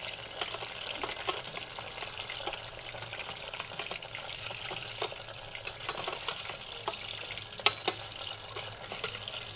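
Chicken deep-frying in hot oil, sizzling steadily with many small crackles and pops, plus sharper clicks from utensils, the loudest just before the end.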